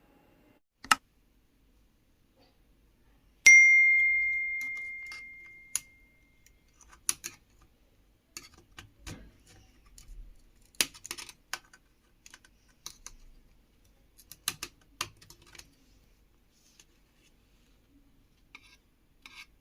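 Small hard objects being handled: scattered clicks and light rattles. One sharp metallic ding about three and a half seconds in rings out clearly and fades over a couple of seconds.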